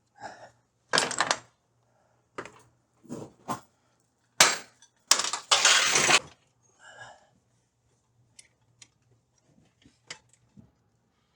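Hand tools and metal parts knocking and clinking as a cable is worked loose: a handful of sharp clinks and clanks, a longer rattle about five seconds in, then a few faint ticks.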